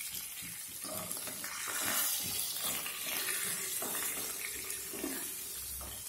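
Garlic, ginger, fennel seeds and curry leaves sizzling in hot coconut oil in a nonstick wok, with a wooden spatula scraping and stirring through them.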